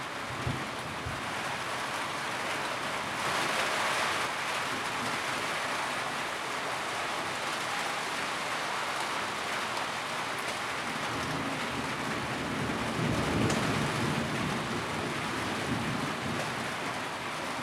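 Steady rain drumming on a tin roof, a dense even patter. A low rumble swells underneath about two-thirds of the way through and fades again.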